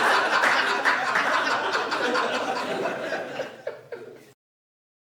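Live comedy audience laughing at a punchline, the laughter dying away. The sound cuts off abruptly to silence a little over four seconds in.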